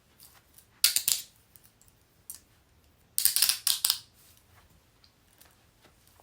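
Metal handcuffs ratcheting: a short run of rapid clicks about a second in, a single click, then a longer run of rapid ratchet clicks lasting under a second.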